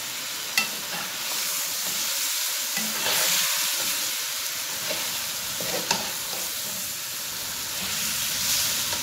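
Chicken, onion and tomato masala sizzling in a steel wok over a gas flame as a metal slotted spoon stirs it through, frying the masala down (bhuna). The spoon clinks sharply against the pan twice, near the start and about six seconds in.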